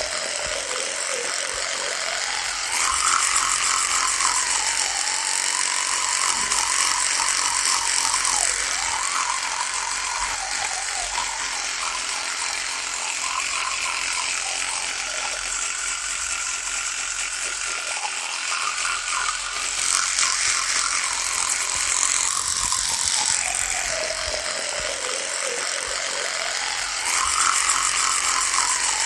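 Electric toothbrush buzzing. Its pitch sags and recovers every few seconds, and it grows louder and harsher for a few seconds at a time.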